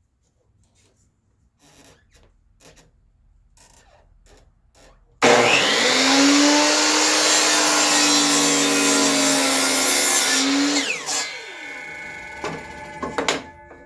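Electric miter saw starts about five seconds in, runs for about six seconds as it cuts a 45-degree angle across the end of a board, then winds down with a falling whine. Light knocks and taps of handling the wood come before and after the cut.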